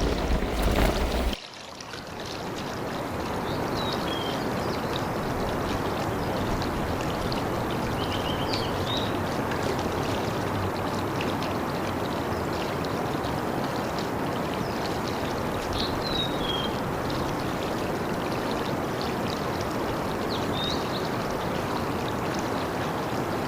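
Steady rushing of flowing water, with a few short, faint high chirps over it. It opens with a louder sound with a deep rumble that cuts off suddenly about a second and a half in.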